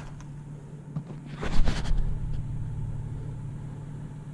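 A vehicle engine idling with a steady low hum, and a short rustling noise about a second and a half in.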